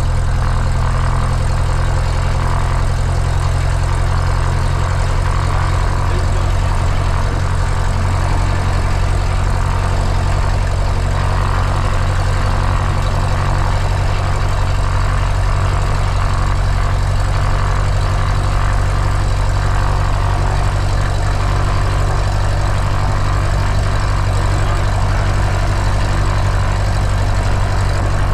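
Cessna 172's piston engine and propeller idling steadily on the ground just after start-up, a constant low drone.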